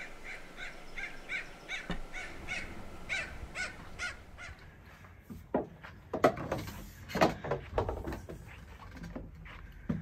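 A corvid gives a rapid series of harsh caws, about two or three a second, for the first four seconds. After that come irregular thumps and knocks of footsteps on a wooden deck.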